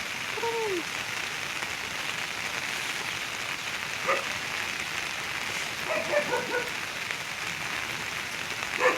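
Heavy rain falling steadily, an even hiss throughout, with a few brief pitched sounds over it, the first a short falling one about half a second in and more around six seconds.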